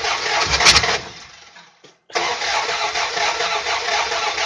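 Starter cranking the 1988 Dodge Ram W100's V8 over without it starting, with the spark plugs out of one bank so that only one side has compression. The cranking stops about a second in and starts again about two seconds in for roughly three more seconds.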